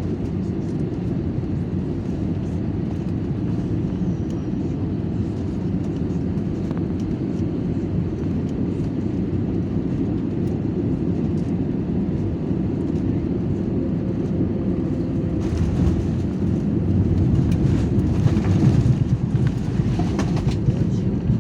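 Airliner cabin noise: the steady low rumble of the engines and airflow, growing louder with a broad rushing noise about fifteen seconds in.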